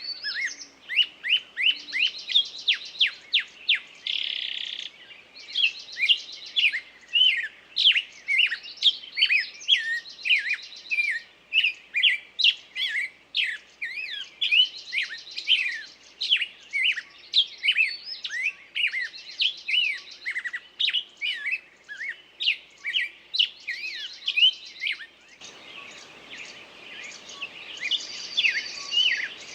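A songbird singing a long, unbroken song: quick, sharp chirps run together, with a buzzy trill every couple of seconds. A low background hiss comes up near the end.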